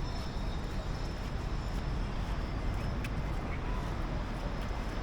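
City street ambience: a steady rumble of traffic with faint voices of passers-by.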